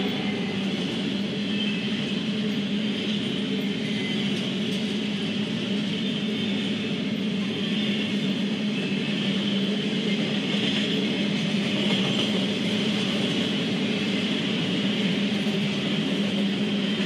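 Double-stack intermodal freight train rolling past, a steady noise of container cars on the rails with no horn or pauses.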